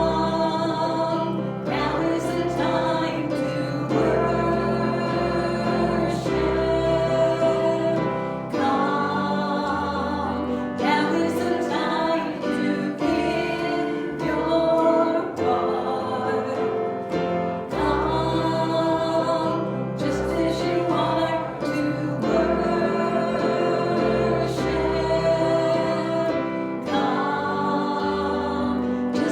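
A group of voices singing a gospel hymn together in long, held phrases.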